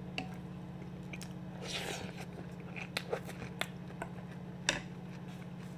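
Close-miked chewing of a tomato and onion salad: wet mouth clicks and smacks, with a sharper click about three-quarters of the way through, over a steady low hum.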